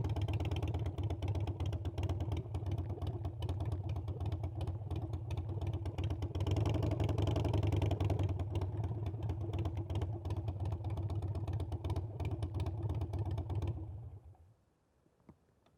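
Harley-Davidson Iron 883's air-cooled V-twin engine running with a low pulsing rumble, louder for a couple of seconds midway, then cutting out about fourteen seconds in.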